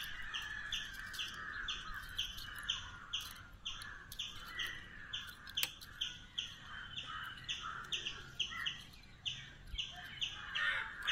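A small bird chirping over and over, about two to three short chirps a second, with other birds calling faintly behind it.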